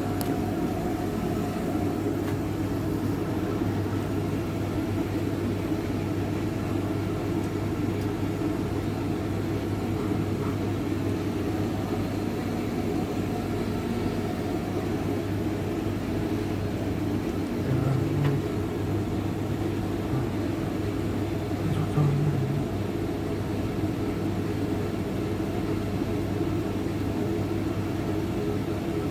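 Hotpoint TL51 tumble dryer running on a test run, its motor humming steadily as the drum turns clockwise, with two brief louder bumps a few seconds apart about two-thirds of the way through.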